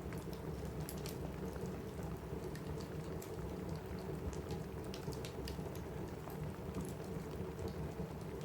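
Steady rain on a roof mixed with a crackling wood fire: a low, even rush of rain with scattered sharp pops and snaps over it.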